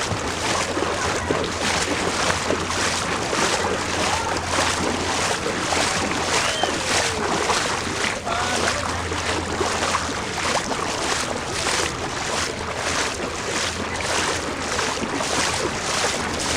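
Flood water splashing and rushing, with a regular splash about twice a second, over a steady low hum.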